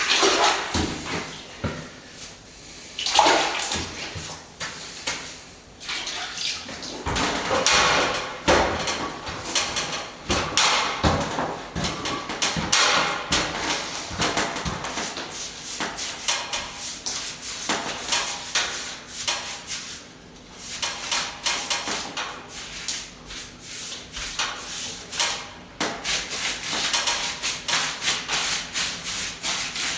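Hand plastering tools scraping and rubbing against a wall in irregular strokes, some short and some drawn out over a second or so.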